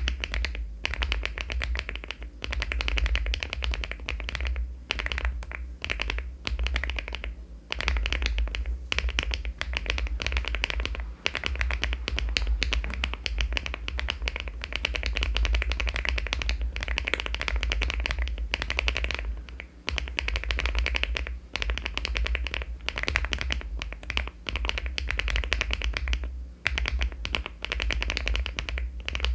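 Continuous fast typing on a LEOBOG Hi75 aluminium mechanical keyboard fitted with HMX Vintage switches and Cherry-profile keycaps, a rapid run of key clicks with a few short pauses.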